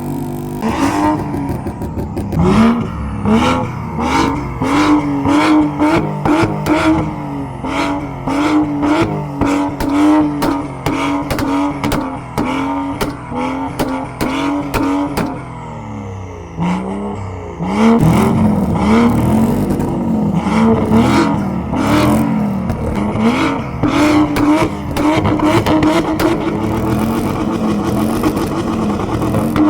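Car engine revving over and over through a custom exhaust, its pitch rising and falling with each blip. It dips briefly about sixteen seconds in, then comes back louder.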